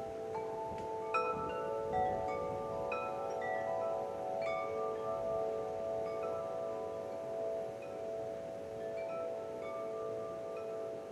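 Metal wind chimes ringing, several tones overlapping and ringing on, with fresh strikes about a second, two seconds and four and a half seconds in.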